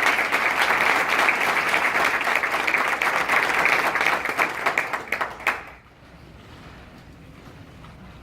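Audience applauding, thinning to a few last separate claps and stopping about six seconds in.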